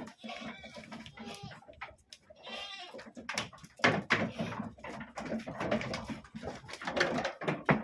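Goats bleating, several calls one after another, with scattered clicks and rustling between them.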